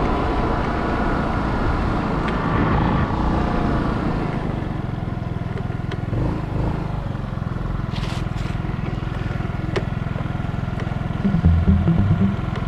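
150cc GY6 scooter's single-cylinder four-stroke engine running steadily as the scooter is ridden along. Near the end, a louder, low, rhythmic pulsing comes in.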